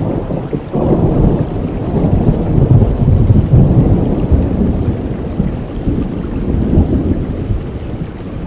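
Steady rain with a long, low roll of thunder that swells about a second in, stays loud for several seconds and eases off near the end.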